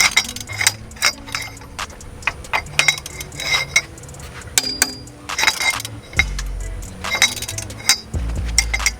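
Ratchet wrench clicking in short irregular bursts with some metal clinks as bolts are loosened, over background music with a low bass line.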